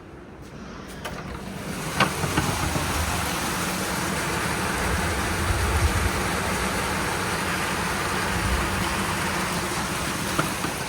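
Heavy downpour of rain, a steady loud rush that swells in over the first two seconds, with a few sharp pattering clicks as it begins.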